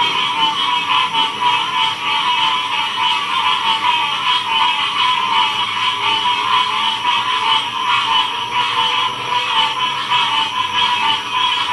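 Loud, steady chorus of many frogs calling at once, their overlapping pulsed calls blending into a continuous din.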